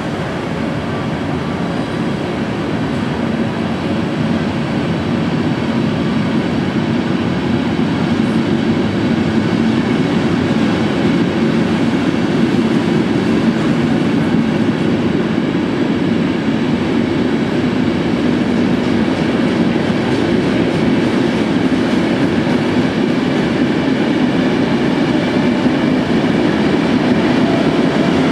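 Passenger train rolling slowly along the platform through an enclosed underground station. Its running noise is steady and grows a little louder over the first few seconds.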